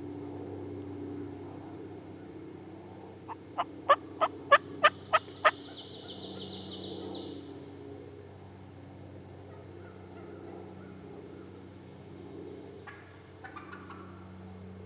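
A run of seven loud, evenly spaced turkey yelps, about three a second, followed by a high, rapid trill lasting about a second and a half. A steady low hum sits underneath, and a few faint short calls come near the end.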